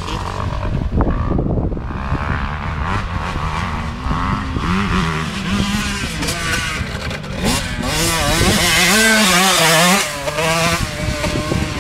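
Motocross bike engines revving up and down on the track. The loudest stretch, about eight to ten seconds in, is a bike passing close.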